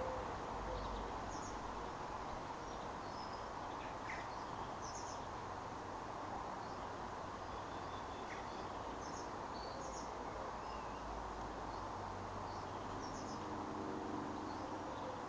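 Steady background hiss of outdoor ambience with scattered faint, short high-pitched chirps from small animals such as insects or birds.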